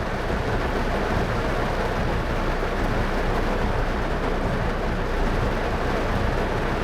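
A car driving in heavy rain: a steady hiss of rain and tyres on the wet road over a low road rumble.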